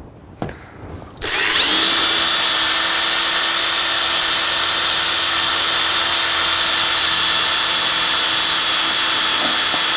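Electric drill starting about a second in and running at a steady speed, a constant whine, while pre-drilling a screw hole.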